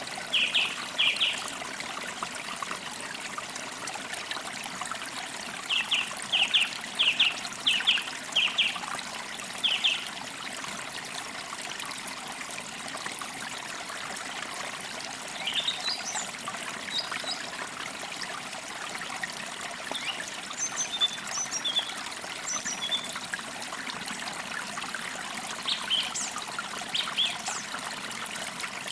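Steady trickle of running water, like a small stream, with songbirds calling over it: clusters of quick repeated chirps in the first ten seconds, then scattered higher chirps and short whistles later on.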